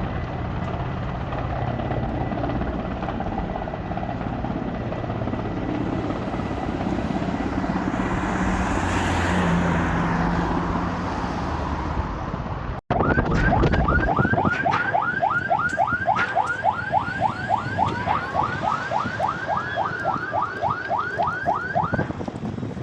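A steady rumbling roar for the first half. Then, after a sudden cut, an emergency vehicle siren in fast yelp mode, about four or five rising sweeps a second, which stops shortly before the end.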